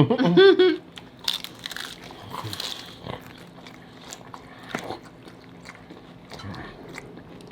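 Close-up biting and chewing on crispy hard taco shells: scattered sharp crunches, the loudest about a second and a half and five seconds in.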